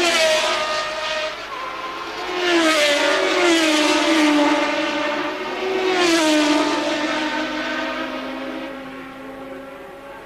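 Early-1980s Formula One cars at full race speed, three loud surges of engine sound about two to three seconds apart, each engine note falling in pitch as the car goes by, then fading near the end.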